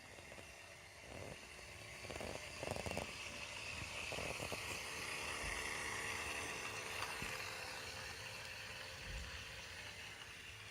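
Small electric motor of a 1968 Lego 118 toy train running, with the wheels and gears rattling along the track; it grows louder about two seconds in and eases off a little near the end.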